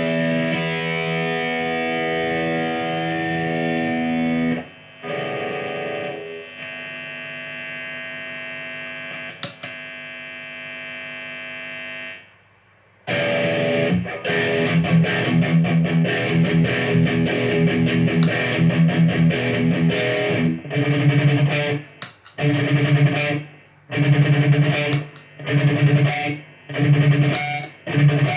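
Electric guitar played through a pedalboard into a Marshall AVT50 amplifier, with a driven effect tone. First there are held, ringing chords, then quieter sustained notes. After a brief pause about twelve seconds in comes rhythmic strumming, which turns into short chopped chord stabs with gaps near the end.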